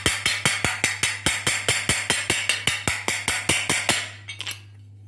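Hammer tapping lightly and quickly, about five taps a second, around the rim of a new 6202 ball bearing to seat it in a ceiling fan's housing. The tapping stops about four seconds in.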